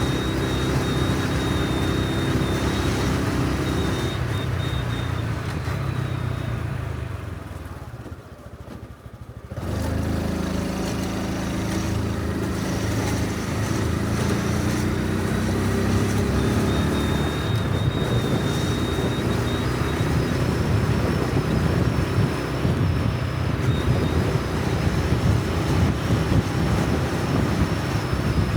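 Honda Super Cub C125's 125 cc single-cylinder engine running under way with wind rush on the helmet microphone. Around 7 s it winds down and goes quiet for a second or two, then picks up again and pulls away.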